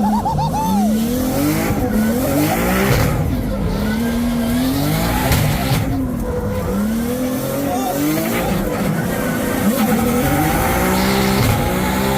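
Drift car's engine revving hard up and down again and again, with tyres squealing as it slides.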